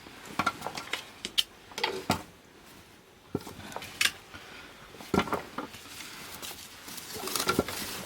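Firewood burning in the firebox of a wood-fired bath, crackling with irregular sharp pops, a few in quick clusters.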